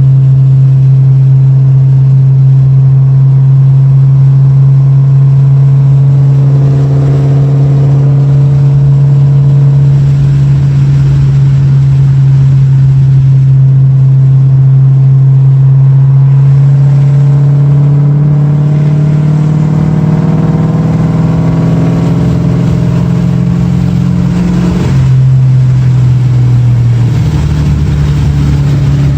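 2006 Ford Mustang GT's 4.6-litre V8 running through MBRP muffler deletes and an off-road X-pipe (no mufflers), a loud exhaust note. The note holds one steady low pitch for a long stretch, then climbs slowly as the engine pulls, falls abruptly about 25 seconds in, and settles back to a steady note.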